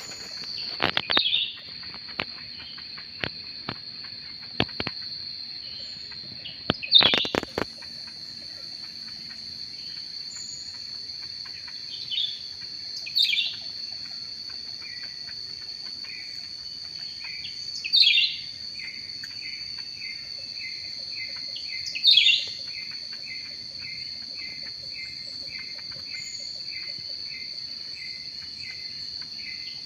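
Birds calling: loud, sharp falling calls every few seconds, and from about halfway a run of short chirps at about two a second, over a steady high-pitched insect drone. A few knocks sound in the first few seconds, one louder about seven seconds in.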